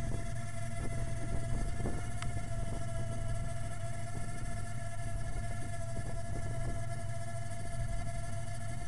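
3.8-litre V6 engine running steadily, with a constant high whine held at one pitch over the engine's low drone.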